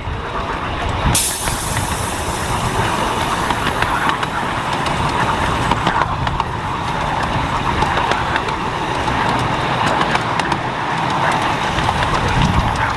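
A miniature railway train on the move: a steady rush of running noise with many small clicks, growing louder about a second in.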